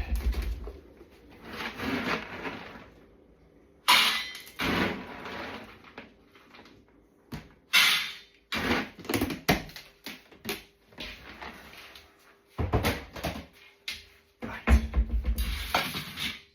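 Irregular scraping, rustling and knocks of a utensil and bowls as dog food is dished out and spread between two bowls.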